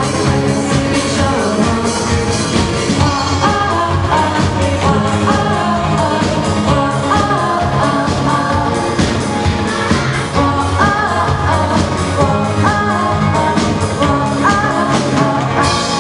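Amateur band playing a pop-rock song live, with a lead singer over drums, bass and guitar.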